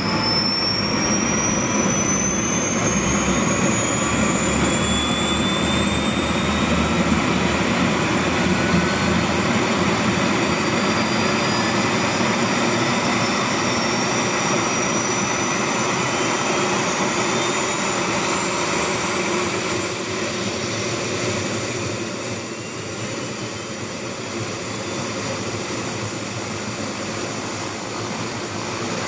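MD530FF helicopter's Rolls-Royce 250 turboshaft spooling up during engine start: a high turbine whine rises steadily over a steady engine and rotor noise, then levels off about twenty seconds in as the engine settles at speed.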